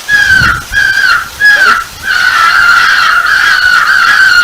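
Crow call sounding three short caws, each falling in pitch at its end, then one long held note from about two seconds in. The tone is loud and clean, not raspy.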